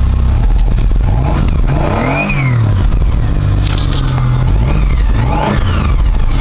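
1995 Dodge Avenger's 2.5-litre V6 running just after a cold start, revved up and let back down about two seconds in and again a couple of times near the end.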